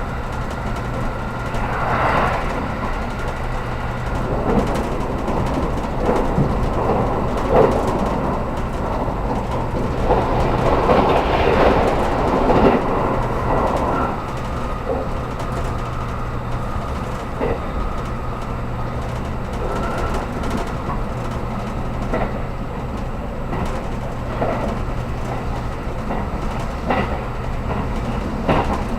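Running noise inside a JR Kyushu 783 series limited express car: a steady low hum of wheels on rail, with irregular knocks from the track. The noise swells and grows busier around the middle.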